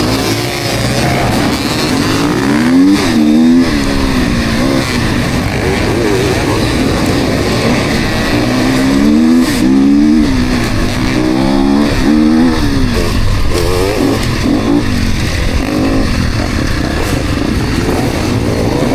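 Several enduro motorcycles revving and accelerating off the start, their engines overlapping. Each climbs in pitch and drops back repeatedly as the riders run through the gears.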